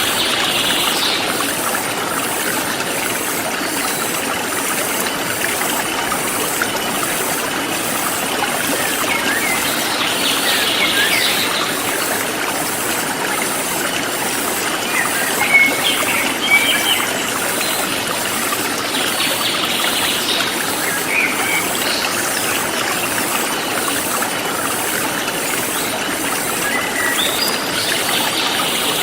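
Forest stream flowing steadily, with a bird chirping now and then over it and a high, evenly pulsing insect call.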